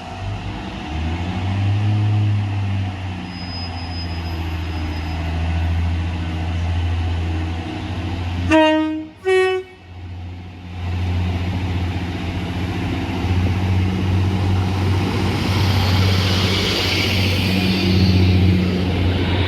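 Diesel train running past with a steady low engine drone. About eight and a half seconds in, its horn gives two short notes, a lower tone then a higher one. A hiss rises over the engine sound near the end.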